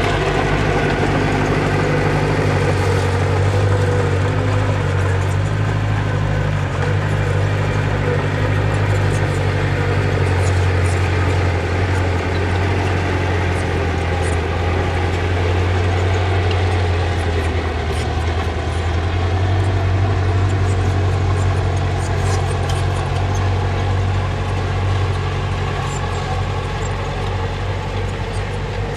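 Diesel engine of earthmoving machinery running steadily, its engine note shifting a little about ten seconds in and again near eighteen seconds, with light clicking over it.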